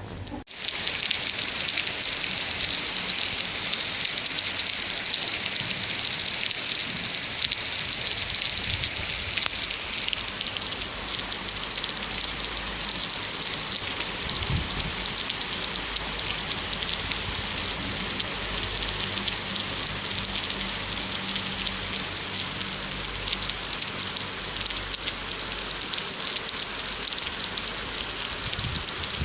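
Steady rain falling, a dense even hiss of drops that starts abruptly about half a second in.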